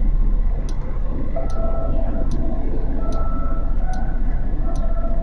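Motorcycle running with a steady low rumble, a sharp tick repeating a little faster than once a second, and a faint steady tone that comes and goes.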